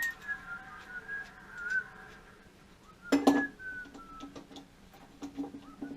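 A person whistling a slow tune, long notes that slide mostly downward, with a few metal clinks and knocks of tools, the loudest about three seconds in.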